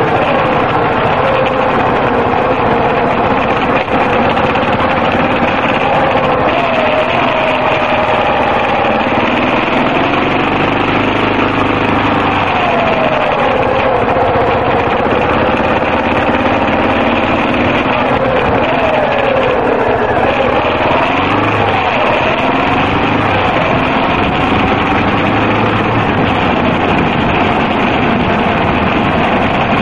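Yamaha XT250's single-cylinder four-stroke engine running under way, its revs rising and falling as the throttle is worked.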